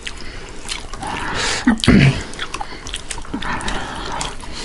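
Close-up eating sounds: wet chewing and mouth smacking on meat curry and rice, with the squishing of rice being mixed by hand on steel plates and a scatter of small clicks.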